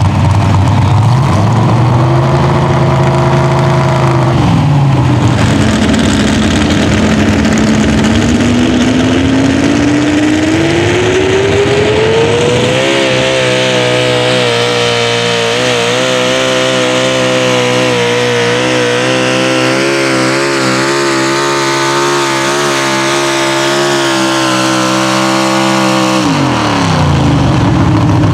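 Pro Stock four-wheel-drive pulling truck's engine at full throttle during a pull. It revs briefly, then climbs steadily in pitch for several seconds and holds at high revs, wavering slightly under load. Near the end the revs fall away sharply.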